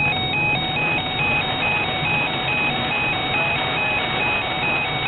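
Weather alert radio sounding its electronic alarm: a buzzy tone alternating between two close pitches about three times a second, heralding a National Weather Service severe thunderstorm warning. Under it is a steady hiss of road and rain noise inside the car.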